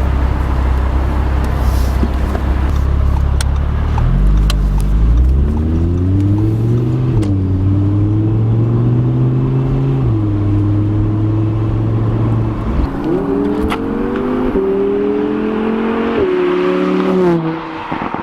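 Audi R8 Spyder's V10 engine accelerating hard through the gears: its pitch climbs, drops back at each shift, and climbs again several times before easing off near the end.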